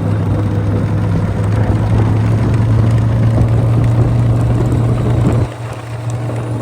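A vehicle engine running at a steady pitch, loud, then dropping off sharply about five and a half seconds in.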